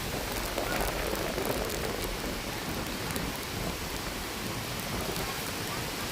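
Steady rain falling during a storm, an even hiss with a low, uneven rumble underneath.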